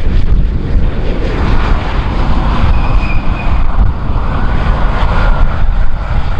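Jet airliner engines rushing under heavy wind buffeting on the microphone; the engine noise swells about a second in, with a faint steady whine over it.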